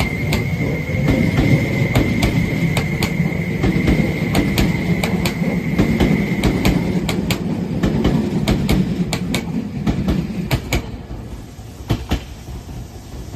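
Tobu N100-series Spacia X electric limited express pulling out of the station: a running rumble with wheels clacking over rail joints and a steady high whine that stops about halfway through. The sound fades over the last few seconds as the train draws away.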